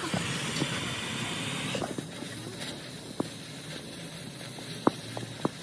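Steady hissing noise, with four or five short sharp clicks in the second half.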